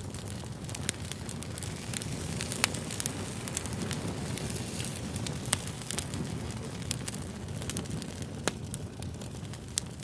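Fire crackling: a steady low rumble and hiss with frequent sharp pops and snaps, a few of them louder.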